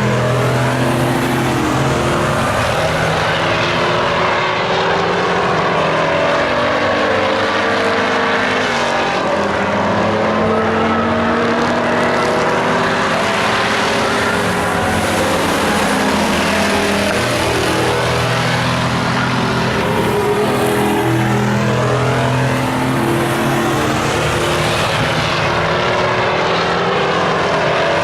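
Several stock race trucks' engines running hard around the track, their pitch rising and falling as they pass.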